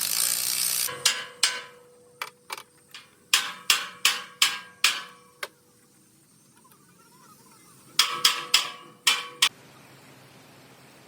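Hammer blows on metal, each with a short ring. There is a quick run of about a dozen strikes, a pause of a couple of seconds, then five more. A hiss at the start stops about a second in.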